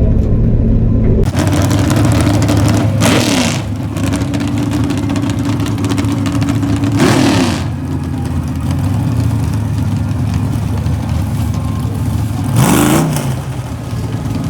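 Car engines running at a drag strip: a steady engine note with three loud swells, about three, seven and thirteen seconds in, in which the engine pitch drops.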